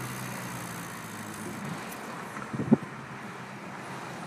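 2006 Toyota Tacoma's 2.7-litre four-cylinder engine running with road noise while driving to warm up the oil, the low engine hum weakening after about a second. A single sharp knock comes about two and a half seconds in.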